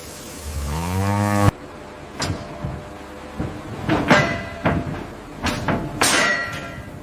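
A cow moos once, its pitch rising, and the call cuts off abruptly about a second and a half in. It is followed by a series of sharp knocks, each with a brief ring.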